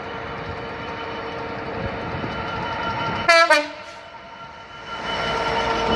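A train running with a steady rumble and a held tone. About three seconds in it gives two short horn blasts in quick succession, each dropping slightly in pitch. The train noise dips after the horn and builds again near the end.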